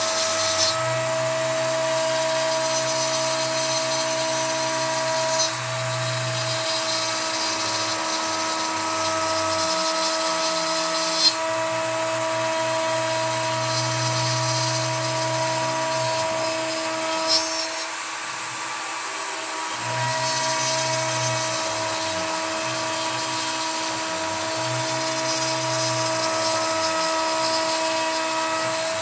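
Kress router spindle on a CNC router running at steady high speed with a 3 mm end mill in pine, giving a steady high whine. Lower motor tones start, stop and change every few seconds as the machine's axes move. There are a few short sharp ticks about 1, 5, 11 and 17 seconds in.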